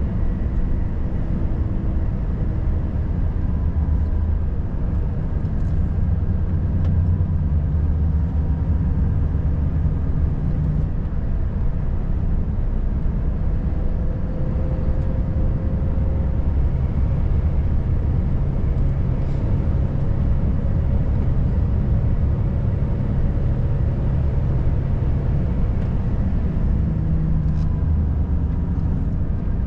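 Volvo FH540 truck's 13-litre six-cylinder diesel running steadily while driving, a low engine drone over road noise.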